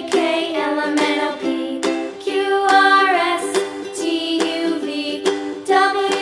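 Cheerful children's background music led by a plucked ukulele-like instrument, with a steady beat and a melody line on top.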